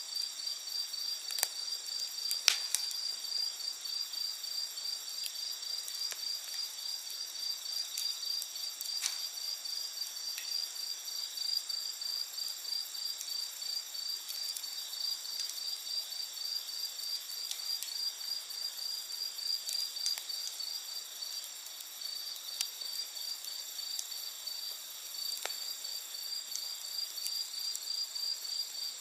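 Crickets chirping steadily in a fast, even pulse, with other insects trilling higher up. Now and then a wood campfire pops or crackles, the sharpest pop about two and a half seconds in.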